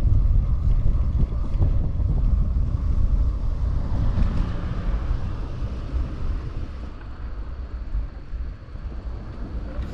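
Wind buffeting the microphone on a moving bicycle, a low, gusting rumble that eases off over the last few seconds.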